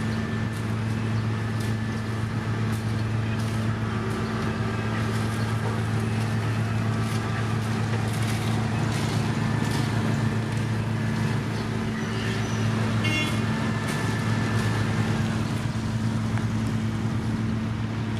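Heavy construction machinery's diesel engine running steadily with a constant low hum, with scattered short clicks over it.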